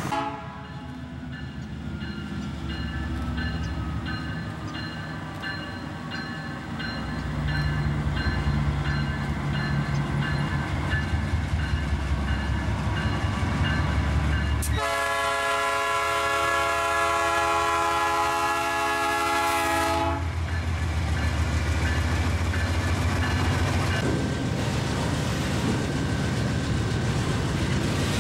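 Diesel freight locomotives approaching, their engine rumble growing louder. About 15 seconds in, the lead locomotive gives one long horn blast of about five seconds as it passes close by. Loaded container wagons then roll past with a steady rumble and clatter.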